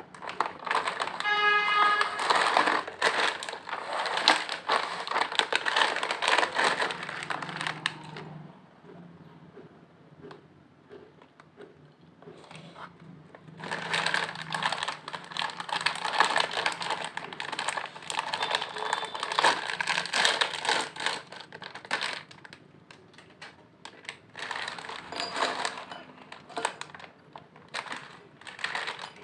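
Lay's potato chips being handled and eaten: dense crinkling and crunching in two long spells, the first over the opening eight seconds and the second in the middle, with lighter crackles near the end.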